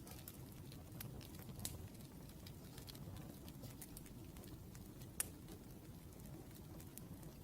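Wood fire crackling: a low steady rumble with scattered sharp pops, the loudest about five seconds in.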